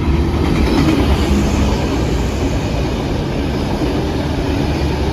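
Train running past on the track beside the platform: a steady, loud rush of wheel and rail noise.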